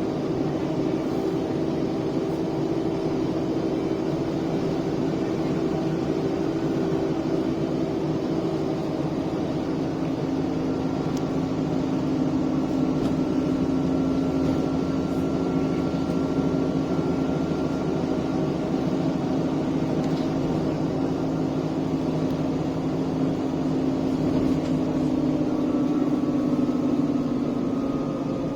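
Diesel engine of an ADL Enviro 400 double-decker bus running under way, its pitch drifting slowly as it pulls, with a faint high whine coming in partway through and again near the end.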